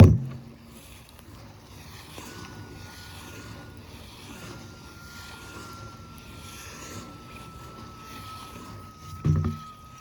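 Frame drum (shaman's buben) struck once with a deep boom that dies away, and struck again about nine seconds in. A faint, steady high ringing tone holds between the strikes, sinking very slightly in pitch.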